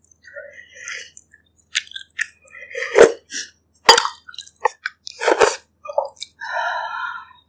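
Close-miked eating sounds: chewing and wet mouth noises broken by several sharp clicks and knocks, the loudest about three, four and five and a half seconds in, and a longer drawn-out mouth sound near the end.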